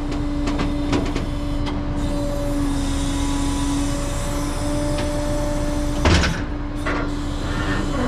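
A truck's engine running with a steady hum, with scattered clicks and one loud thump about six seconds in.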